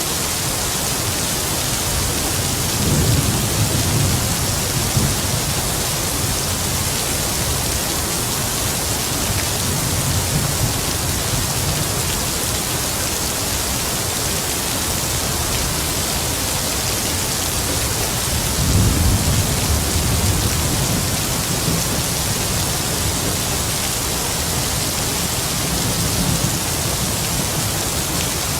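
Heavy rain falling steadily, with distant thunder rumbling low twice, about three seconds in and again near the twentieth second, and fainter rumbles between.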